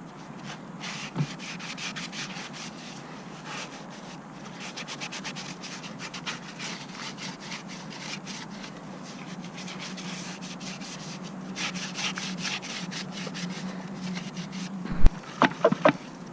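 Repeated rubbing and scraping strokes, with a sharp knock about fifteen seconds in followed by a few quick clicks.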